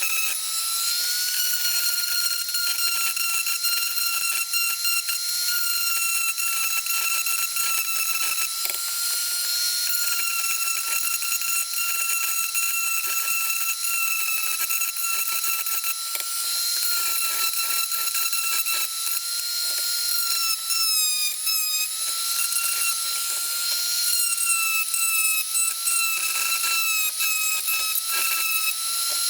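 Small high-speed power tool motor running with a steady high-pitched whine over a hiss. The pitch wavers slightly and sags briefly about two-thirds of the way through.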